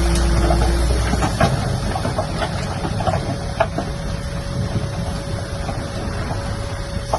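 Heavy earth-moving machine running at work, its diesel engine drone steady under scattered metallic clanks. A low hum drops away after about a second, and a steady whine comes in about halfway through.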